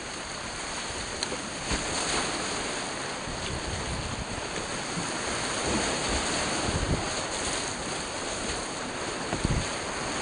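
Rushing creek whitewater, a steady noisy wash, with a few short knocks scattered through it.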